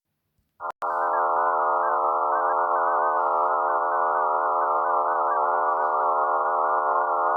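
Eerie synthesized space drone presented as the sound of Mars's moon Phobos: after a moment of silence, a dense chord of steady layered tones starts about a second in and holds, its upper tones wavering.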